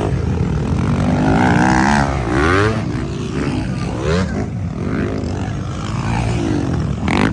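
Motocross bike engines revving hard on track, several at once, their pitch climbing and dropping repeatedly as the riders open and close the throttle and shift gears.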